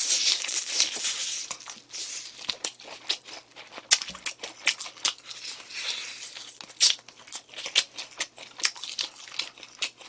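Close-miked chewing of crispy fried chicken: many sharp crunches and crackles, densest in the first couple of seconds, then scattered bites through the rest.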